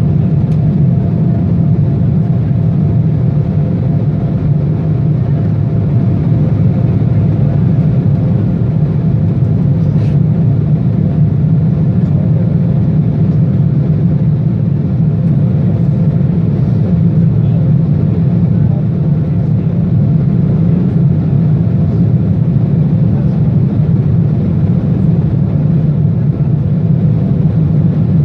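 Airliner's jet engines and rushing air making a loud, steady drone during takeoff, with a faint steady hum on top.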